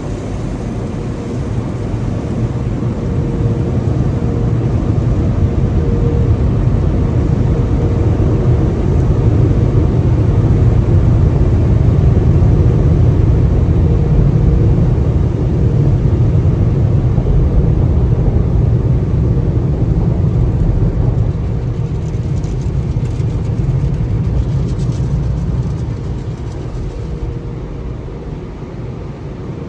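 Automatic car wash machinery running with a loud, steady, deep roar and a faint steady hum, swelling over the first dozen seconds and fading toward the end.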